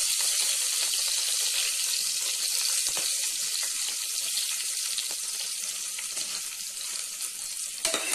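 Green chillies and dried red chillies frying in hot ghee, a steady sizzling hiss that slowly dies down. Near the end a spatula starts stirring and scraping in the pot.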